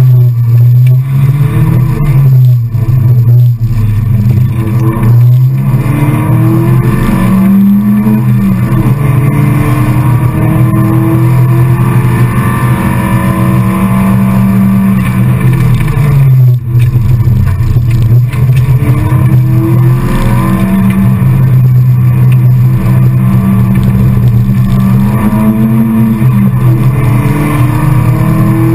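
Rally car engine heard from inside the cabin, driven hard. Its pitch climbs with the revs and drops back at each gear change, with a brief lift off the throttle about sixteen seconds in.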